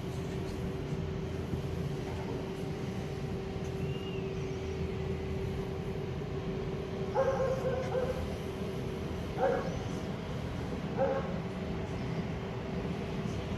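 A dog barking a few short times, starting about seven seconds in, over a steady hum and low rumble.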